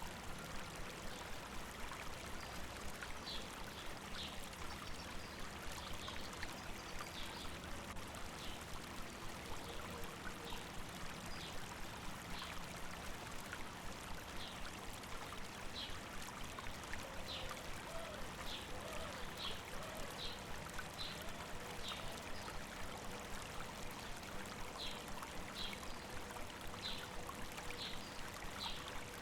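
A stream flowing steadily over rocks, with short, high bird chirps coming and going over the water.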